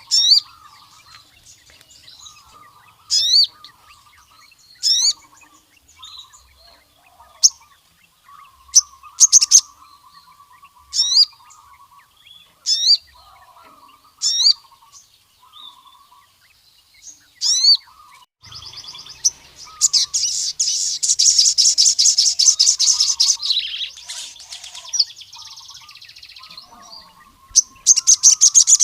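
Male sogon, a sunbird, singing: short, sharp, high sweeping notes repeated every second or two, then a long, rapid, chattering trill about two-thirds of the way in, and another short burst near the end. A fainter, lower twittering runs behind it throughout.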